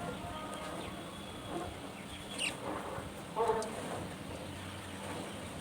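Pet budgerigars giving a few short chirps and one brief call over a steady background hum.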